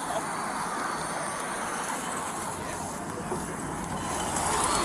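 Steady vehicle noise, a low rumble with hiss, growing a little louder near the end.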